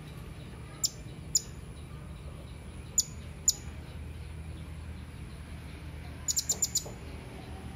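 Blue-crowned hanging parrot (serindit) giving short, very high-pitched calls: two pairs of single notes in the first half, then a quick run of about five notes near the end. A low, steady hum sits underneath.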